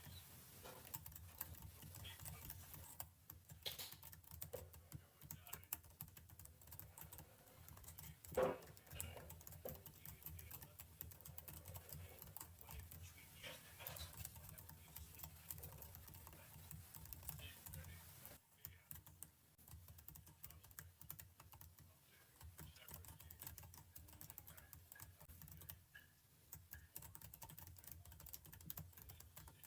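Typing on a computer keyboard: a steady run of quiet key clicks, with one louder knock about eight seconds in.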